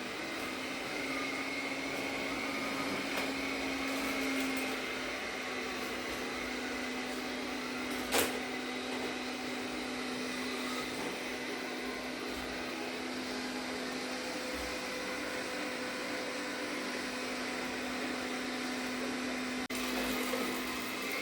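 Arnagar S8 robot vacuum cleaner running on a carpet: a steady motor hum with a higher whine over the rush of suction. There is one sharp click about eight seconds in.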